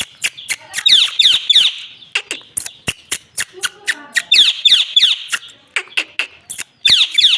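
Indian ringneck parakeet calling: runs of three quick, shrill notes that sweep downward, about 1 s, 4.5 s and 7 s in, among many sharp clicks.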